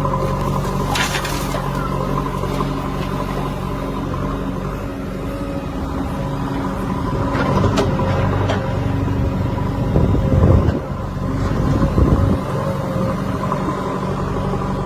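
Diesel engine running steadily, with two short louder surges about ten and twelve seconds in.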